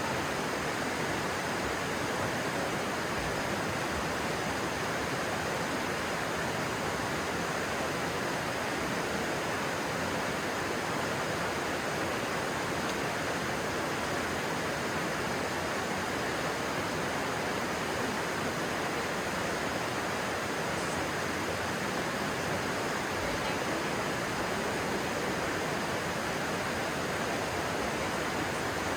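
Stream water rushing steadily, an even noise that does not change.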